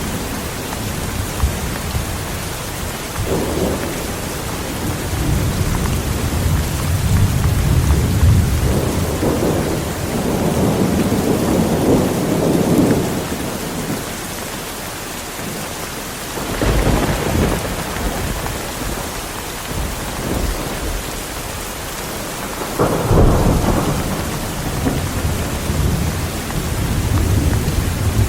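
Heavy rain falling steadily through a thunderstorm, with rolling thunder rumbling repeatedly; a long low roll builds through the first half, and two sharper claps break in about two-thirds of the way through and again near the end.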